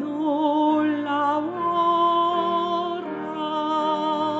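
Cantata singers holding long sustained notes with vibrato over accompaniment, the harmony moving to a new chord about every second and a half.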